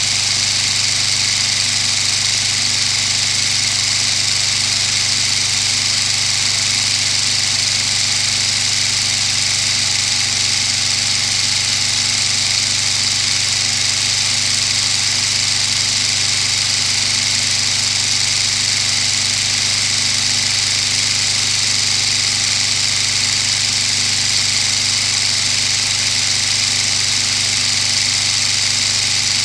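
Lego model of an inline-12 two-stroke diesel engine, built from three Detroit Diesel 4-71s firing a cylinder every 30 degrees of crank rotation, running at a steady, unchanging speed.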